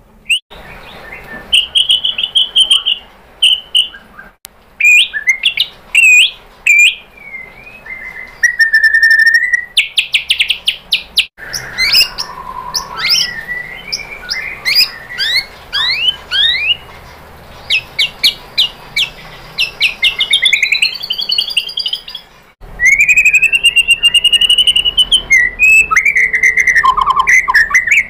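White-rumped shama (murai batu) singing a loud, varied song of clear whistles, gliding notes, sharp chirps and fast rattling trills, with its run of mimicked phrases. The song breaks off abruptly twice and starts again at once.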